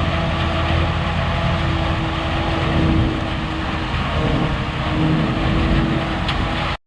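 Forage chopper running steadily while chopping whole corn stalks for silage: a loud engine hum with a held whining tone on top. It cuts off abruptly just before the end.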